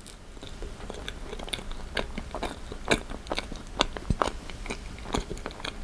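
Close-miked mouth sounds of a person chewing a forkful of Twosome Place icebox cake, made of soft, moist chocolate cookie layers and heavy cream: irregular wet clicks and smacks, several a second.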